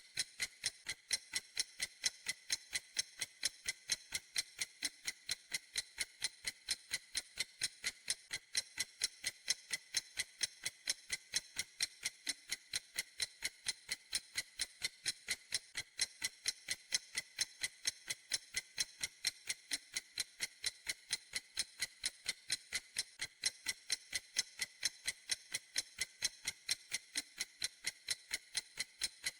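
Clock ticking steadily: crisp, high, evenly spaced ticks, several a second, with no change in pace or level.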